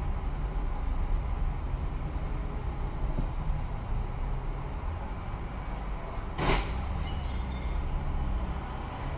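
Steady low rumble of a car idling and creeping in slow traffic, heard from inside the cabin, with one short hissing burst about six and a half seconds in.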